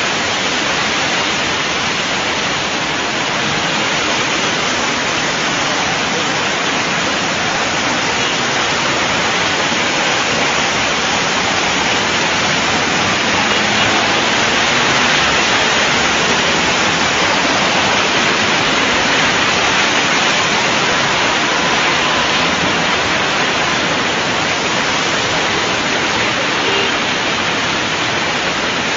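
Heavy rain and running floodwater: a loud, even rushing hiss that holds steady throughout.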